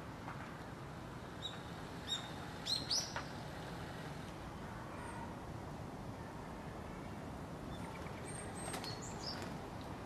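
Bird chirps, short and high: a few scattered notes between one and three seconds in, loudest near three seconds, and another small cluster near the end, over steady background noise.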